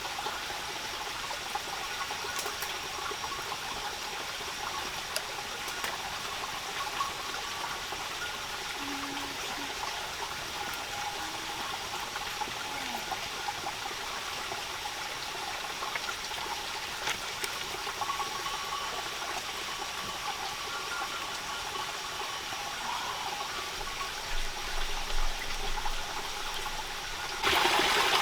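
Steady rushing water with a few faint ticks; it turns louder shortly before the end.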